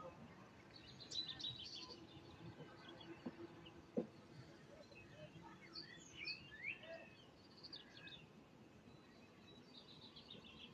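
Faint birds chirping and calling in scattered short phrases over a low background hiss, with one sharp click about four seconds in.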